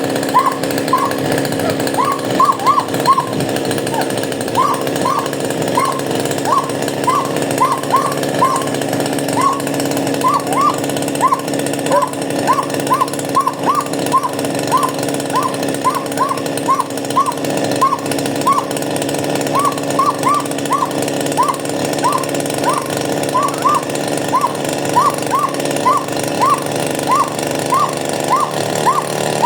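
Chainsaw engine running steadily. Short, high, hooked sounds repeat over it about once or twice a second.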